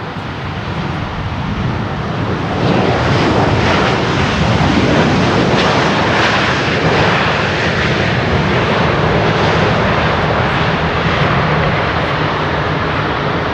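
Jet engines of a Boeing 737-600 (CFM56-7B turbofans) passing close as it lands. The sound swells over the first three seconds, holds loud, and eases slightly near the end.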